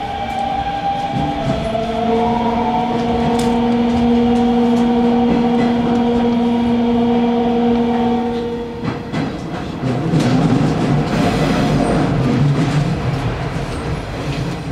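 Hanshin Railway electric commuter train's traction motors whining as it accelerates, the pitch rising at first and then holding steady. About nine seconds in the whine stops, and the rumble of the wheels, clacking over rail joints, takes over.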